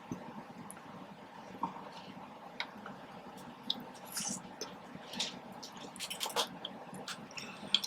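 Scattered soft clicks, smacks and brief rustles of someone eating and handling food close to the microphone.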